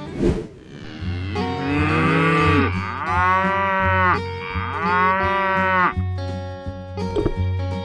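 A cow mooing three times, each long call rising then falling in pitch, over background music. A brief sharp sound comes right at the start.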